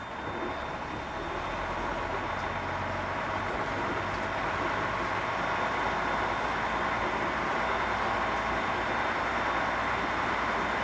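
Container truck on the move: steady engine and road noise, building slightly over the first couple of seconds and then holding even.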